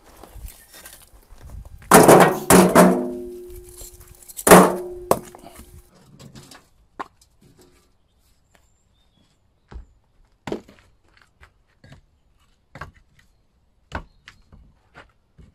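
Demolition of brickwork: several heavy knocks and clatters of bricks in the first few seconds, a couple leaving a short ringing tone, then scattered lighter knocks and clinks.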